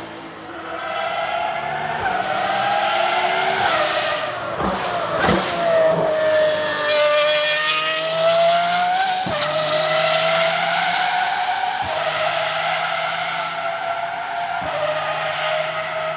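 Nissan 370Z's 3.7-litre V6 engine running hard under load, its pitch rising and sagging slowly, with several sharp breaks where the note steps.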